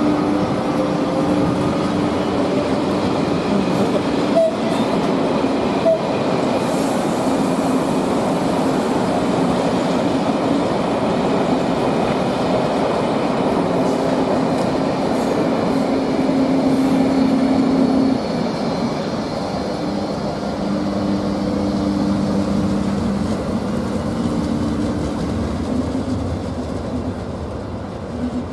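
A train running through the station: a steady rolling rumble with a humming tone that shifts in pitch, and a couple of faint clicks about four and six seconds in.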